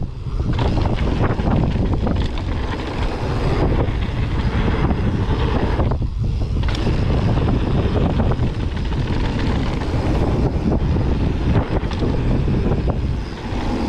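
Mountain bike riding fast down a dirt trail: wind rushing over the microphone over a low rumble of tyres on the ground, with frequent small knocks and rattles from the bike. The noise drops briefly about six seconds in.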